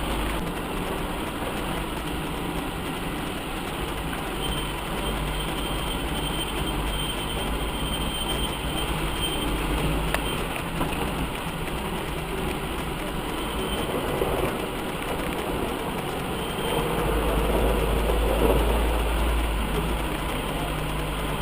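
UAZ off-roader's engine running as it drives over rough ground, a steady low rumble that gets louder for a couple of seconds near the end.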